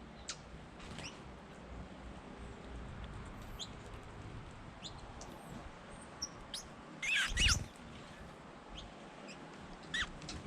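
Small birds giving short, high chip calls here and there. About seven seconds in comes a louder burst of several calls together with a low thump.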